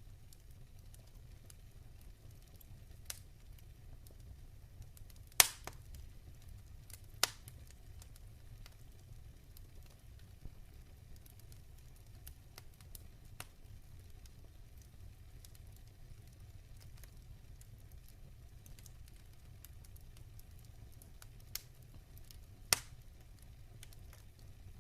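Wood fire crackling in a fireplace: a steady low rumble of the flames with scattered sharp pops, the loudest about five seconds in and others about seven seconds and near the end.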